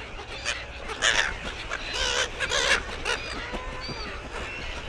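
A large flock of gulls calling at once: many short, harsh squawks overlapping, several louder close calls about a second in and again around two to two and a half seconds, as the birds crowd in to be fed.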